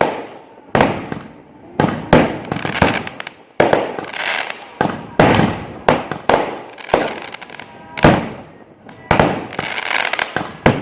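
Fireworks going off: a dozen or so loud, sharp bangs at irregular intervals, each trailing off over a fraction of a second.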